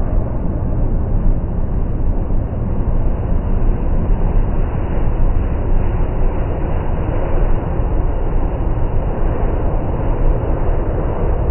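Steady low roar and rumble of a large jet airliner's engines as it comes in to land, with no distinct whine or change in pitch.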